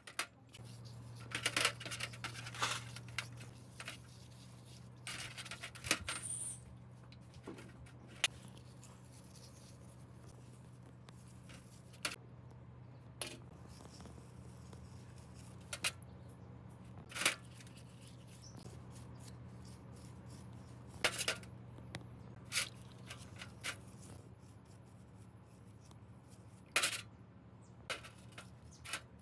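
Scattered light clicks and taps of hand work on small parts, spaced irregularly, over a steady low hum.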